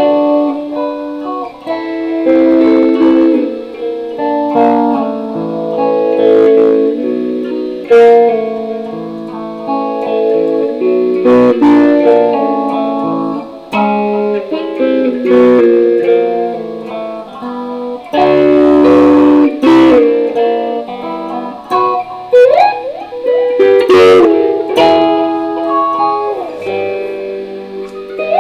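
Electric guitar played solo: picked single notes and chords, with a few sharp strums and sliding notes about three-quarters of the way through.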